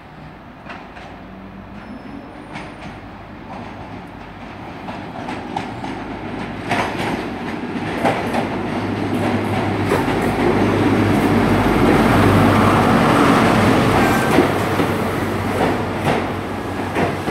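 A Class 43 HST power car's diesel engine draws nearer and passes as the train slows into the platform. Its steady hum builds to a peak about twelve seconds in, then eases a little. Wheels click over the rail joints throughout.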